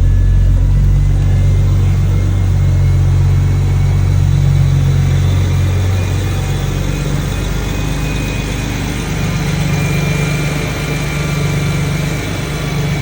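BMW N54 3.0-litre inline-six, converted to a single turbo, running just after its first start following the build. It holds a raised idle, then drops and settles to a lower idle about six seconds in.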